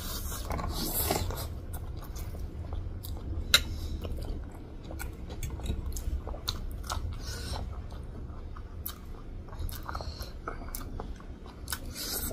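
Close-miked chewing of pork chow mein noodles by two people, with many short mouth clicks and crunches and one sharper click about three and a half seconds in.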